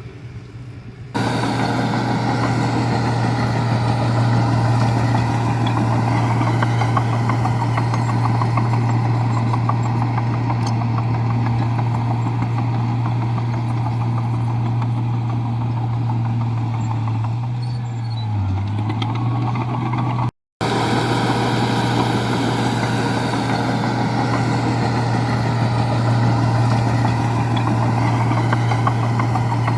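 Komatsu bulldozer's diesel engine running steadily under work, a strong low drone whose pitch sags briefly about two-thirds of the way through. The sound jumps louder about a second in and cuts out for an instant later on.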